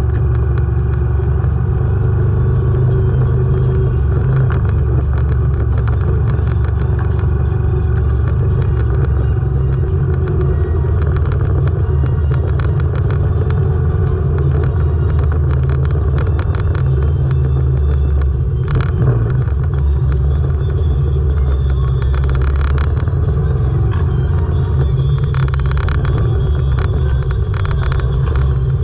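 Moto Guzzi V85TT's air-cooled 90° V-twin running steadily at low, even speed, mixed with the engines of the many motorcycles around it in a slow group ride. A single sharp knock about two-thirds of the way through.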